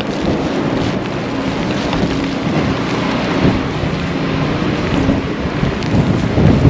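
Blizzard wind buffeting the camera microphone: a steady, loud rushing noise.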